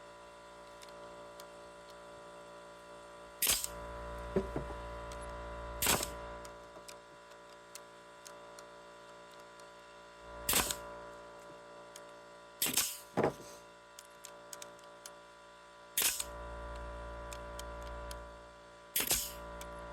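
Several short, sharp clicks a few seconds apart over a steady electrical hum.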